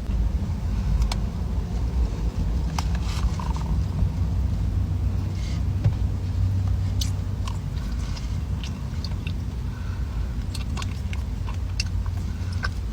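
Close-up crunching and crackling of a crisp-shelled hazelnut pastry, with scattered sharp cracks over a steady low rumble.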